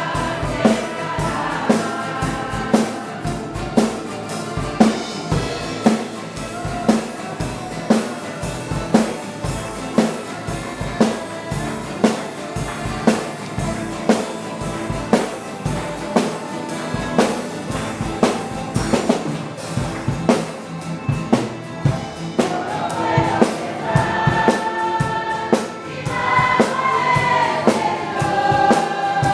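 Gospel music: a group of voices singing a hymn over a steady drum beat, with the singing coming up more strongly in the last few seconds.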